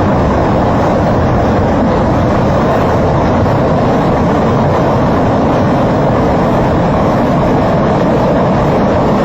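Steady, loud rushing of a muddy waterfall, an even roar of falling, churning flow with no breaks.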